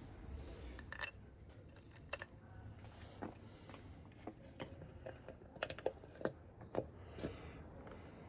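Irregular light metallic clicks and taps of small parts and nuts being handled and fitted by hand, faint, with a few sharper clicks about a second in and near six and seven seconds.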